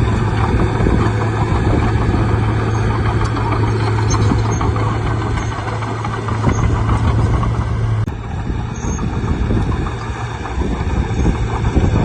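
Bulldozer's diesel engine running with a steady low drone. About eight seconds in, the sound breaks off sharply and goes on with a lower, less even drone.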